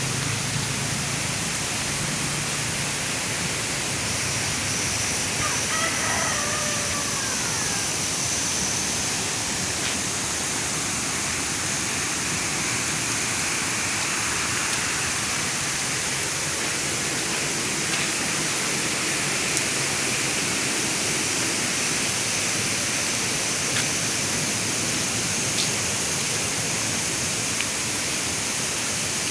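Steady rushing noise of running water, even and unbroken, with a faint short call about six seconds in.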